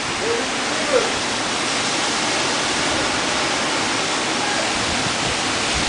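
Steady hiss of heavy thunderstorm rain and strong wind, even and unbroken.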